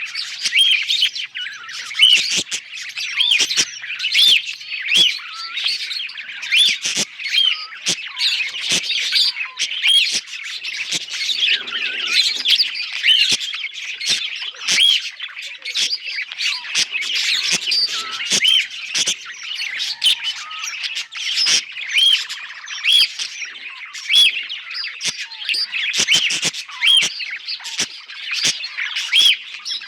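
Budgerigars warbling: a continuous chatter of quick chirps, clicks and squawks, with a short whistled note recurring about once a second.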